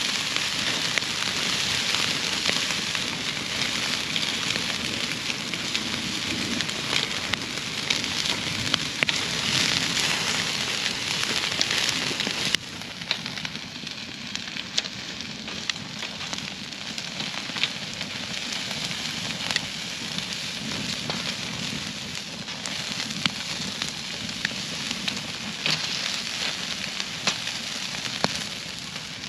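Campfire burning with a steady hiss and scattered sharp crackling pops; the level drops suddenly about halfway through, then goes on more quietly.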